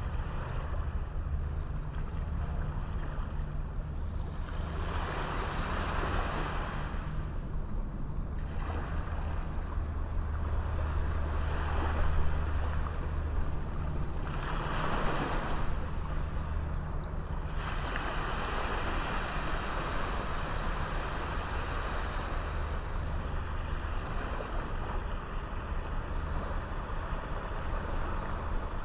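Small sea waves breaking and washing up a beach in repeated swells every few seconds, over a steady low rumble of wind on the microphone.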